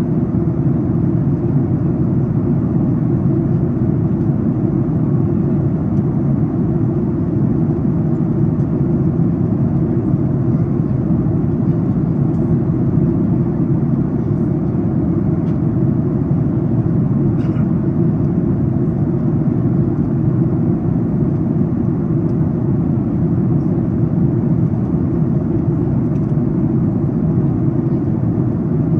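Steady low rushing hum inside the cabin of a Boeing 737 MAX 8 airliner in its descent, from airflow and engine noise. The level stays even throughout, with most of the sound in the low range.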